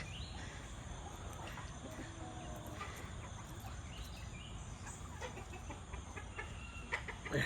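Backyard chickens clucking softly: a scatter of short calls over steady low outdoor background noise.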